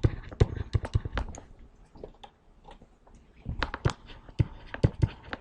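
A series of irregular light taps and clicks in two clusters, with a quieter gap in the middle.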